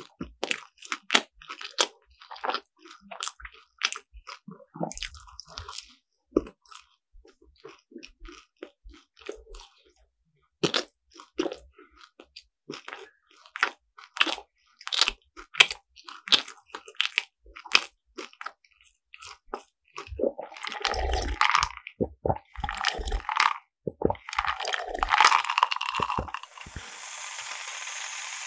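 Close-up crunching and chewing of crisp croffles (croissant waffles), many quick crackly bites and chews, with a few louder longer bursts late on. About two seconds before the end a steady hiss takes over.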